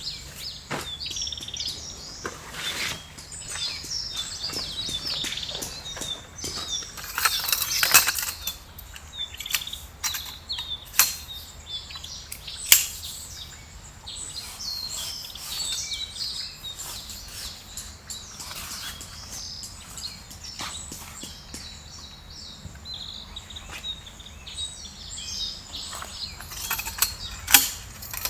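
Forest birds chirping and singing over a steady outdoor background, with scattered sharp clicks and knocks, the loudest about 8 seconds in, near 13 seconds and near the end.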